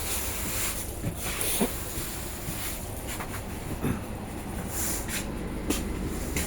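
Steady low rumble inside an Indian Railways AC three-tier sleeper coach, with a few short knocks and rattles.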